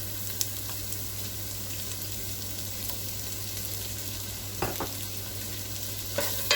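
Chopped vegetables sizzling in butter and oil in a pan, with a spoon stirring and knocking against the pan a few times, the loudest clatter near the end.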